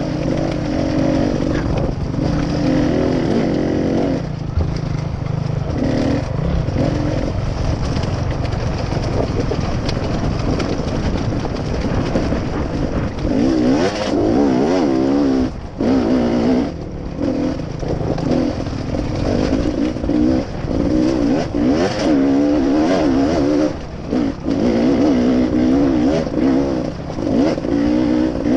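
Motorcycle engine under way, its pitch rising and falling as the throttle is worked, with short drops in level a few times. A steady rush of wind noise runs underneath.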